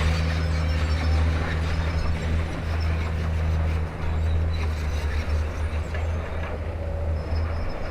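Heavy construction-machine diesel engine running steadily with a deep, even drone, with faint scattered clicks over it.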